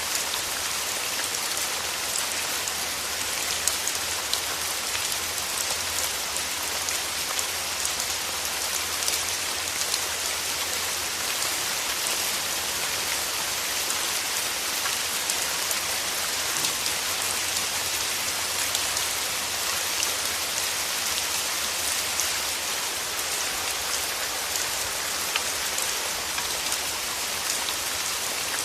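Steady rain falling through forest trees: an even, unbroken hiss made of many small drops ticking on leaves.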